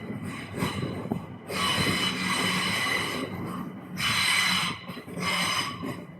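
Passing train with high-pitched metallic wheel squeal that comes and goes in several surges, fading away near the end.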